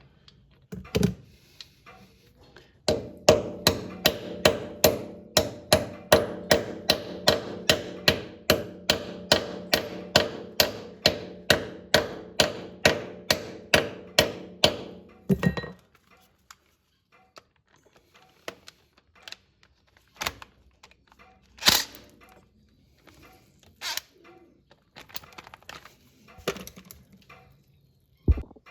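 Hammer blows on metal, a steady run at about two and a half strikes a second with a ringing tone under them, lasting about twelve seconds. Then scattered single knocks and clanks, one louder than the rest near the end.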